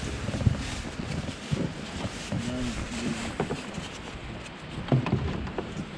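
Wind and sea noise on a small fishing boat, with faint voice fragments in the first few seconds and a couple of knocks from handled gear, one just after the start and one about five seconds in.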